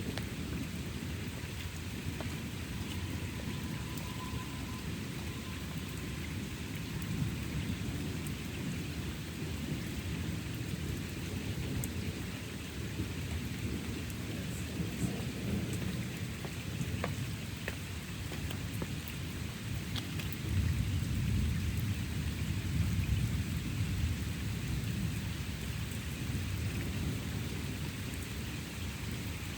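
Thunderstorm: steady rain with low rolling thunder rumbling under it, the thunder swelling louder about two-thirds of the way through.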